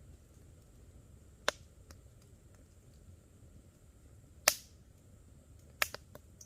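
Wood campfire crackling with a few sharp pops over a low, soft background: one about a second and a half in, the loudest about four and a half seconds in, and a quick cluster of smaller pops near the end.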